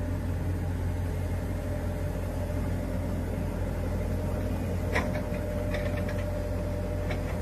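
A steady low mechanical hum, even and unbroken, with a short click about five seconds in.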